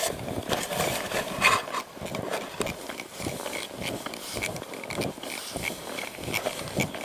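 Footsteps crunching through fresh powder snow at a steady walking pace.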